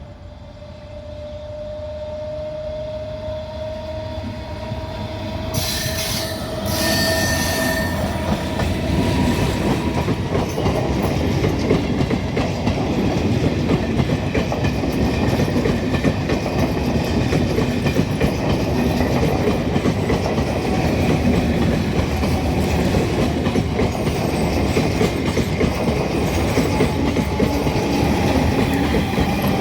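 MEMU electric multiple-unit train approaching and passing close by. A steady motor whine rises slightly in pitch and the sound grows louder over the first eight seconds, with a brief high-pitched burst about six seconds in. Then comes a loud steady rumble of wheels and coaches with clickety-clack over the rail joints.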